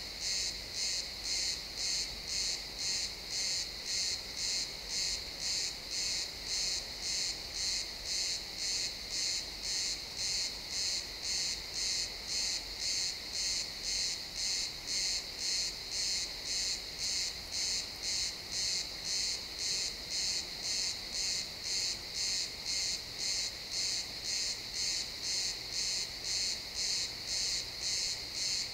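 Crickets chirping in a steady, even rhythm of just under two high-pitched pulses a second.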